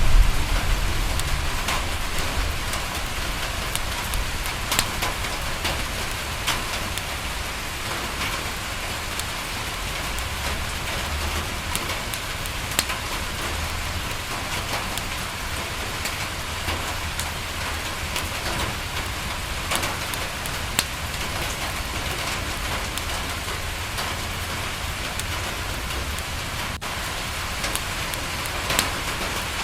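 Steady rain on a window, an even hiss scattered with sharp ticks. A low rumble at the very start eases off within a couple of seconds.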